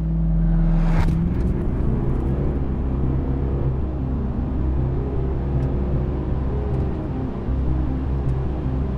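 VW Touareg's 4.0-litre V8 TDI diesel engine held at steady revs, then launching hard about a second in and pulling at full throttle from a standstill.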